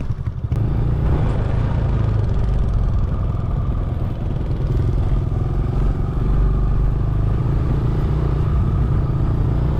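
Motorbike engine running steadily, with heavy low-pitched sound, while riding over a rough dirt road.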